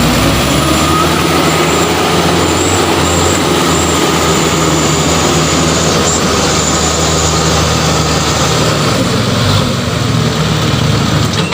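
Heavy truck's diesel engine running loud and steady.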